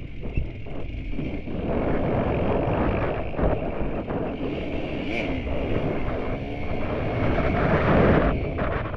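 KTM enduro motorcycle engine running under load on a muddy trail, the throttle opening and closing, loudest about eight seconds in, with wind buffeting the microphone.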